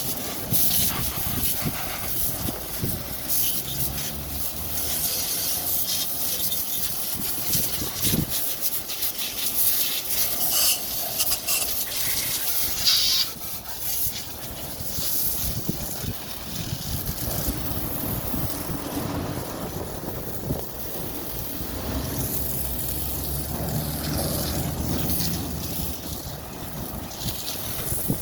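A hose jet spraying water against a vehicle, a steady hiss with spattering. A low machine hum rises and falls underneath several times.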